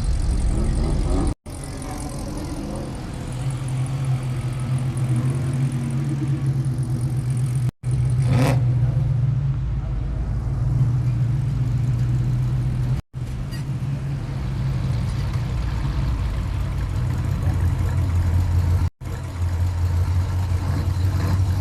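Car engines running at low speed, a steady low rumble that cuts off abruptly in short silent gaps about four times, with a brief rev about eight seconds in.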